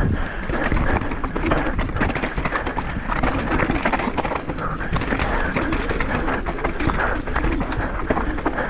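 Mountain bike being ridden fast down rough, rocky ground: continuous clatter and rattling of the bike over the terrain, with wind noise on the microphone.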